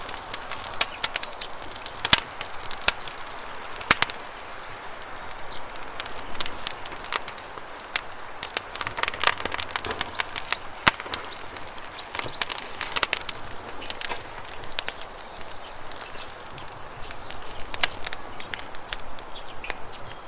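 Campfire crackling with sharp, irregular pops over the steady rush of river water.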